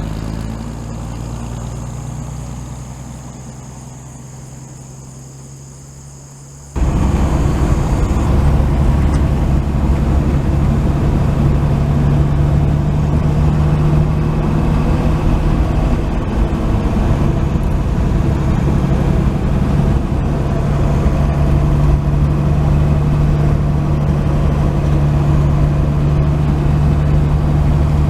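1949 Chevy 3100 pickup's inline-six engine and road noise heard from inside the cab while driving. The sound is fainter and fading for the first several seconds, then cuts abruptly to a loud, steady drone about seven seconds in.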